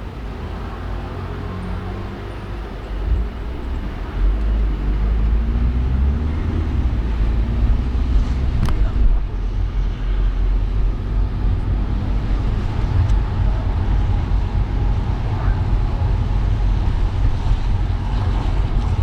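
Road noise from a car driving through city traffic: a steady low rumble of engine and tyres that grows louder about four seconds in, with a single sharp click near the middle.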